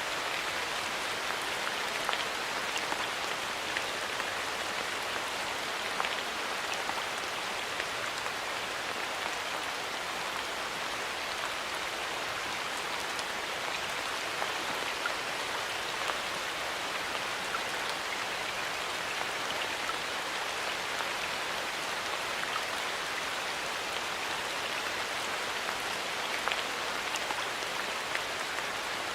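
Steady light rain falling in a forest, an even hiss with scattered individual drops ticking on leaves and surfaces.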